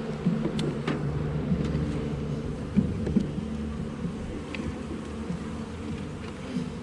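Honey bees buzzing steadily around an open hive, from a colony that the beekeepers judge calm rather than angry. A few light clicks and taps sound through it.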